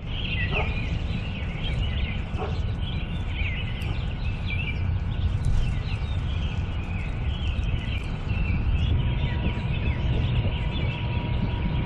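Small birds chirping and singing over and over, many short quick calls overlapping, over a steady low rumble.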